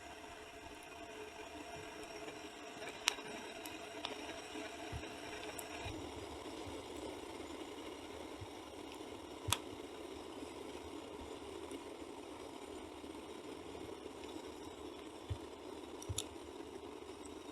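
Wood fire burning in the wind: a steady rushing noise with a few sharp crackling pops from the burning wood.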